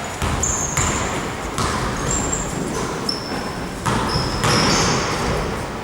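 Basketball game play: sneakers giving short high squeaks on the court several times, with a ball bouncing and the general noise of players moving.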